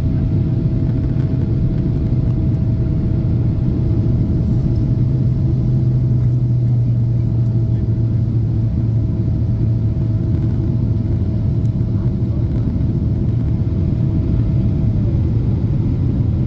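Steady low rumble of a Boeing 777-300's engines and airflow heard inside the cabin, with a faint steady whine that drops in pitch near the end.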